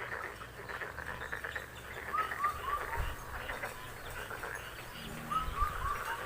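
A bird calling a quick run of four short, falling notes, given twice, over a steady hiss of wind and rain.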